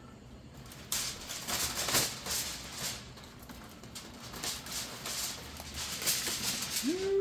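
Aluminium foil crinkling and rustling as it is pulled back from a baking dish, a dense run of crackles starting about a second in. Near the end there is a short hummed 'mm' from a man's voice.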